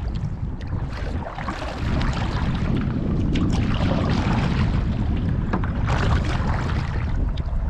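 Wind buffeting the microphone in a steady low rumble, with water splashing from canoe paddle strokes.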